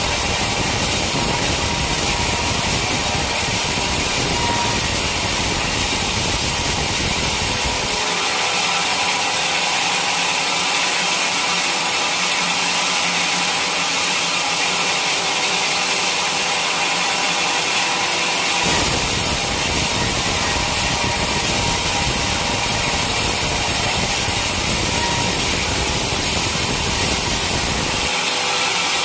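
Powered mill saw running steadily through a teak log, a loud, even noise with a hiss. The low rumble cuts out abruptly about eight seconds in and comes back about eleven seconds later.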